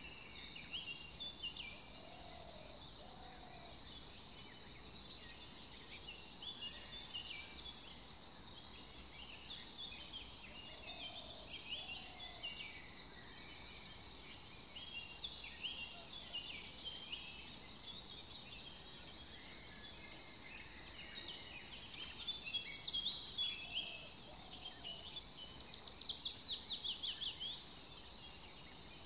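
Birdsong: many quick chirps and twitters, with a lower two-note call three times and a fast trill near the end.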